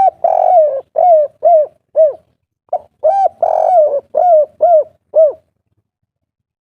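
Spotted dove (tekukur) singing its 'kuk 3' song twice. Each phrase is a short coo, a longer drawn-out coo, then three quick arched coos. The second phrase starts a little under three seconds in, and the song stops about a second before the end.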